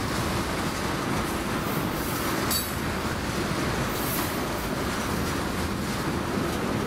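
Railroad cars rolling past on the track, a steady rumble of wheels on rail, with a brief high wheel squeal about two and a half seconds in.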